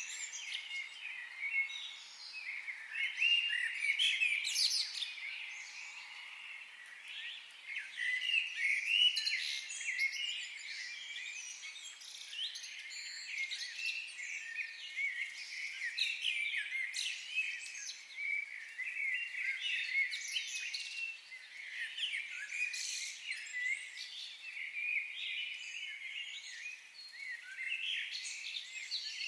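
Many songbirds calling and singing at once, a dense overlapping chorus of chirps and trills.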